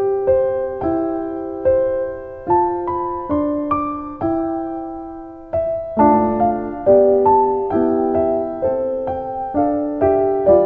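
Background piano music: gentle chords struck about once a second, each note dying away.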